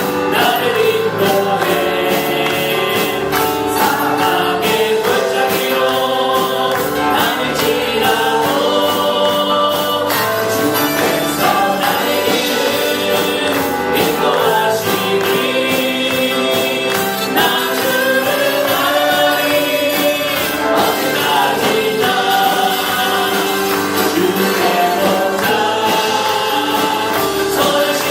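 Gospel music: a choir singing with a band, a steady beat and tambourine.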